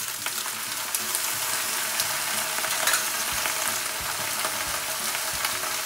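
Lobster pieces and soy sauce sizzling steadily in a hot wok as they are stir-fried, with scattered small clicks as the pieces are moved.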